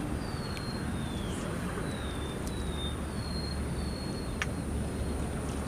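Open-air pondside ambience: a bird gives a series of short, falling whistled notes, about one every half second, which stop about two-thirds of the way through. Under it run a steady thin high insect whine and a low steady rumble.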